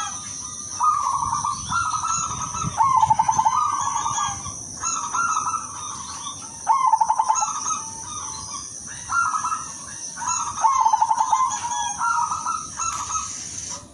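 Silver perkutut (zebra dove) cooing over and over, each phrase ending in a quick stuttering trill, about one phrase every one to two seconds.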